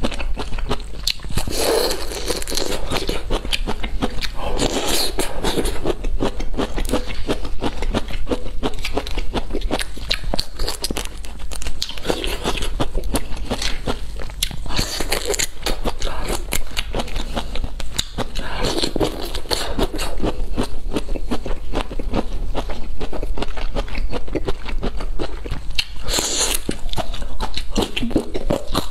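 Close-up crunching and chewing of pickled bamboo shoots: crisp bites and wet chewing that swell in bouts every few seconds, over a low steady hum.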